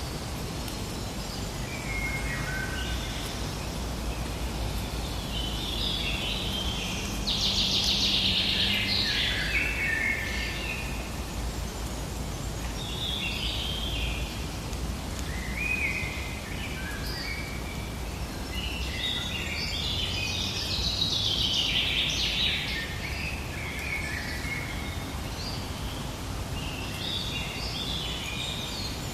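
Forest ambience: several birds singing and chirping in short repeated phrases over a steady background hush, with bursts of song about a quarter of the way in and again past the middle.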